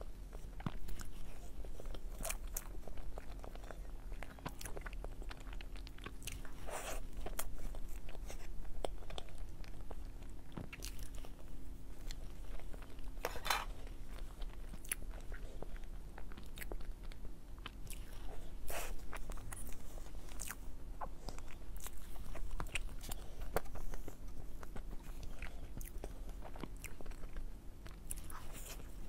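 Close-miked eating of soft matcha mousse cake: wet chewing and mouth clicks at irregular intervals, with a few sharper smacks. A low steady hum runs underneath.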